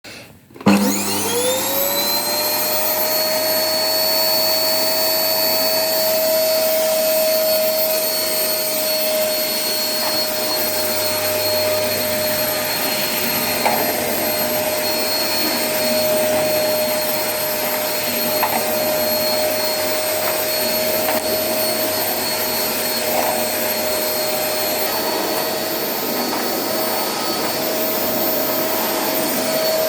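A high-speed electric motor switched on, spinning up within about a second to a steady high whine and then running evenly, with a couple of faint knocks along the way.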